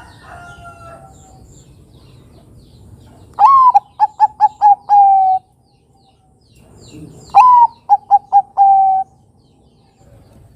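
Perkutut bangkok (Thai-bred zebra dove) singing two cooing phrases. Each opens with a swooping note, runs into a quick string of short staccato coos, and ends on a longer held coo.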